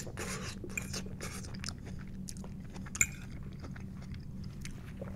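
Close-up chewing of a forkful of loaded tater tots with cheese, lettuce and tomato: a run of small wet mouth clicks and smacks, with one sharper click about three seconds in.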